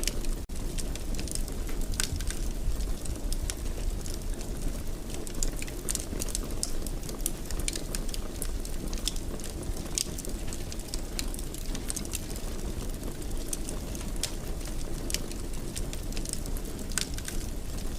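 Wood fire crackling in a fireplace: frequent sharp pops and crackles over a steady low rumble, with a momentary gap about half a second in.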